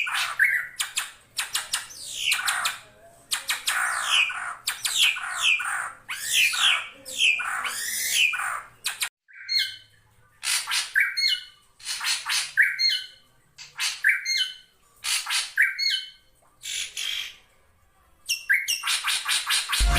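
Drongo calling. The first half is a dense, harsh run of squawks and chatter with many falling notes. After a brief pause comes a series of sharp repeated calls, about one to two a second, with a short break near the end.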